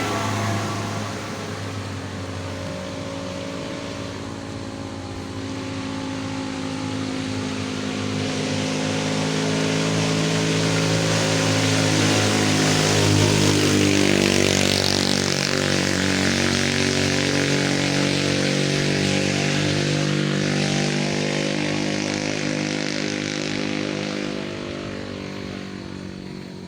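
A motor vehicle's engine pulling uphill, its pitch slowly shifting as it labours. It grows louder to a peak about halfway through, then fades away.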